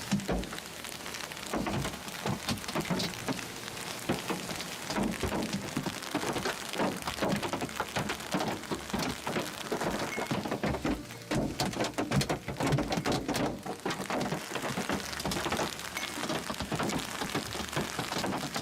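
Hail pelting down: a dense, irregular clatter of hard hits over a steady rush of falling ice and rain.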